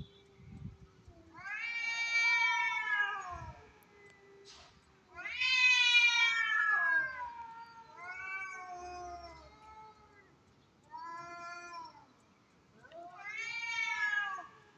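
Domestic cats caterwauling in a territorial standoff: about five long, drawn-out yowls that rise and fall in pitch, over a lower, steadier moaning tone.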